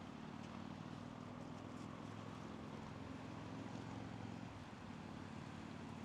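Faint, steady outdoor background: a low droning hum over a soft, even hiss.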